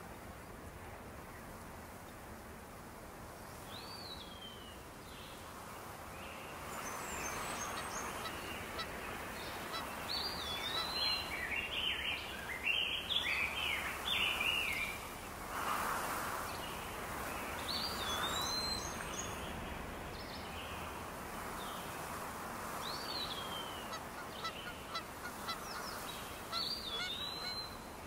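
Birds calling in short, hooked calls that come in several bouts and are busiest about ten to fifteen seconds in, over a steady outdoor hiss.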